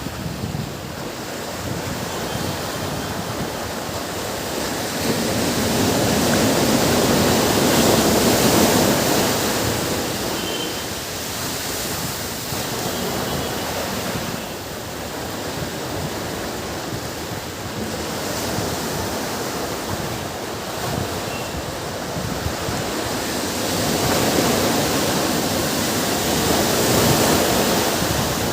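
Ocean surf on a beach: a steady wash of waves that swells to a louder breaking wave about eight seconds in and again near the end.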